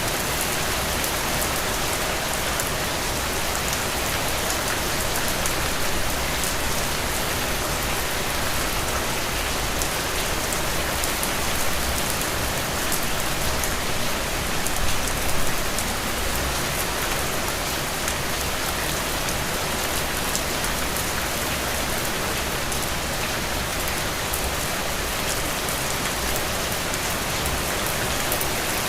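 Steady rain falling, an even hiss with many fine drop ticks, swelling slightly a couple of times about halfway through.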